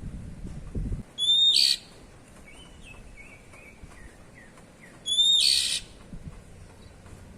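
Oriental magpie-robin (kacer) giving two loud, harsh 'cier' calls about four seconds apart. Each opens with a short clear whistle, and soft twittering notes fall between them.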